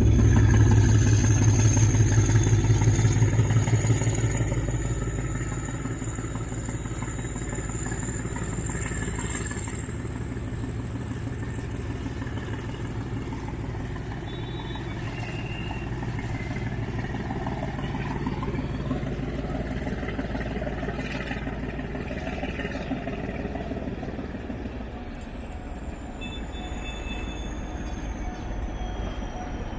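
Freight train of container wagons rolling over a level crossing, a heavy rumble that is loudest for the first four seconds and then eases to a steadier rumble with street traffic. A thin high whine rises slowly through most of it and falls away near the end.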